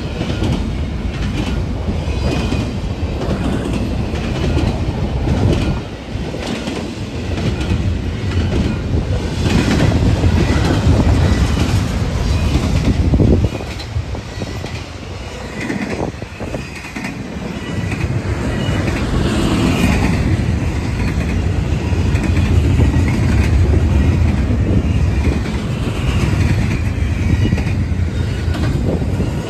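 BNSF freight train rolling past at close range, a steady rumble with the rapid clickety-clack of wheels over the rail joints. The loudness swells and dips as the cars go by.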